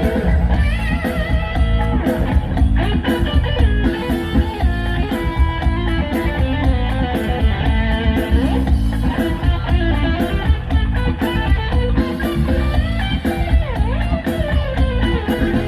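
Live luk thung band music with electric guitar to the fore over a heavy bass and drum beat.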